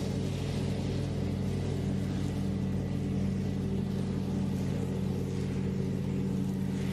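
An engine running steadily: a low, even drone that does not change.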